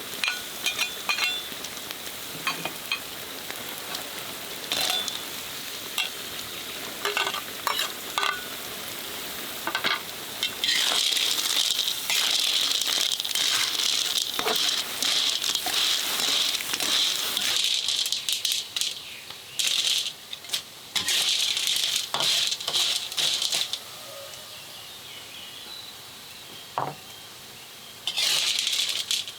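Food sizzling in a hot pan, with scattered clicks and scrapes of stirring. The sizzle swells loud about ten seconds in, then comes and goes in spells until it drops away near the end.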